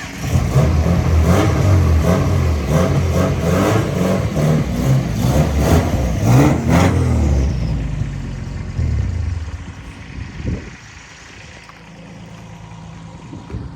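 Subaru Legacy car engine revving as the car is driven off, its pitch rising and falling for about eight seconds, then dropping away to a low, quieter running sound, with a brief knock about ten seconds in.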